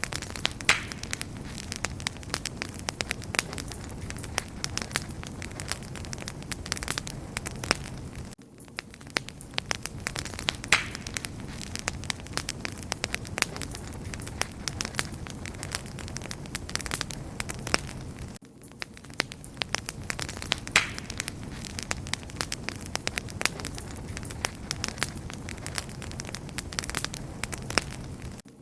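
Wood fire crackling and popping steadily over a low rumble of burning, with sharp snaps scattered throughout. The same stretch of crackling repeats about every ten seconds, with a brief dip at each join.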